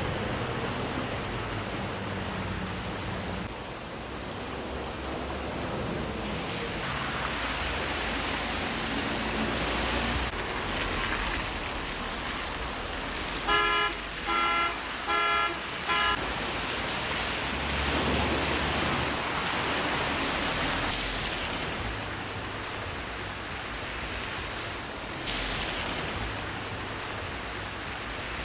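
Steady rush of heavy rain and floodwater on a city street, with cars driving through it. About halfway, a car horn gives four short toots in quick succession.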